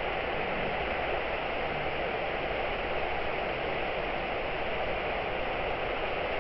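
Ouzoud waterfall rushing close by: a steady, even roar of falling water that does not change.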